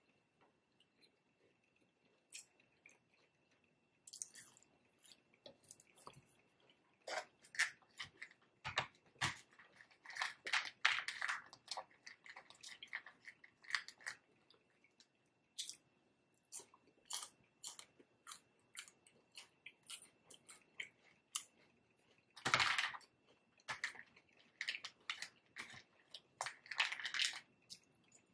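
A person chewing and crunching crisp salad, with irregular crunches that come thickest about a third of the way in and in a short loud burst near the end.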